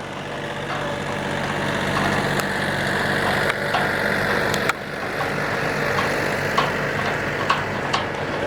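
Sport Stock garden pulling tractor engine running hard, its level building over the first couple of seconds and dropping suddenly a little past halfway, with a few sharp clicks over it.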